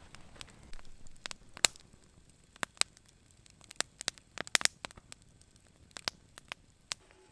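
Spruce-wood campfire crackling: sharp, irregular pops and snaps, some much louder than others, over a faint hiss.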